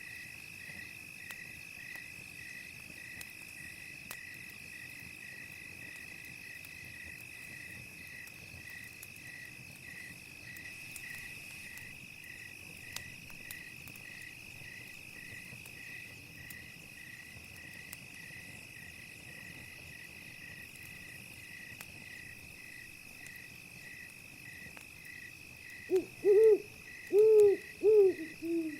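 Night ambience: crickets chirping steadily, about two chirps a second, over a continuous high insect trill, with faint scattered crackles of a campfire. Near the end an owl hoots loudly about five times in quick succession.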